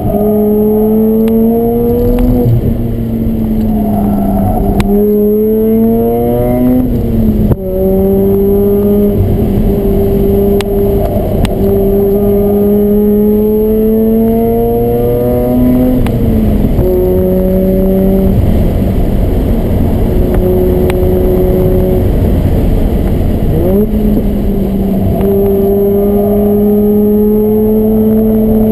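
Mazda RX-8's two-rotor rotary engine, heard from inside the cabin through an aftermarket exhaust, being driven hard around a track. Its pitch climbs slowly through each stretch and drops sharply at each lift or gear change, about five times.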